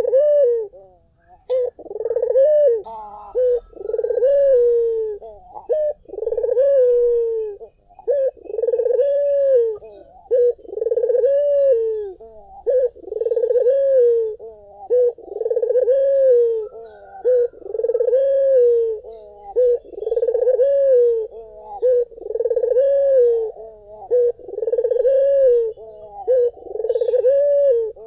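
Barbary dove (puter) cooing over and over, one rounded, low coo about every one and a half seconds with no break, and a few faint high chirps from other birds in the background.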